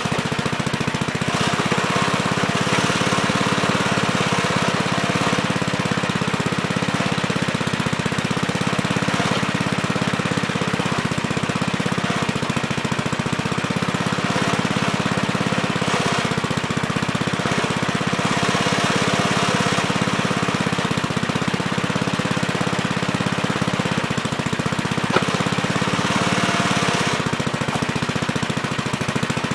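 Gravely Terramite compact backhoe running steadily as it digs, its sound swelling every few seconds as the hydraulics are worked under load. A single sharp click comes about twenty-five seconds in.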